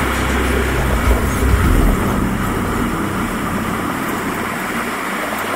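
Running noise of a steam-hauled passenger train heard inside the carriage: a steady rumble and rattle of wheels on the rails, with the deep rumble easing about two seconds in.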